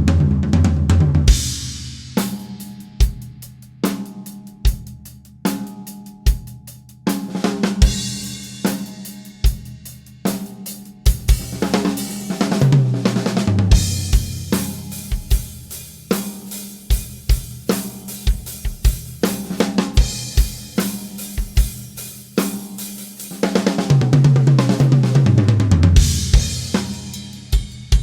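Acoustic drum kit with no dampening on the snare, toms or floor toms, only a small roll inside the bass drum, so the drums ring out openly. A steady beat of bass drum, snare and hi-hat with cymbal crashes, broken three times by tom fills whose low notes ring on.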